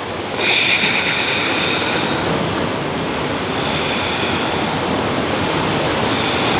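Ocean surf washing steadily on the beach, with a brief high whine over it for about the first two seconds.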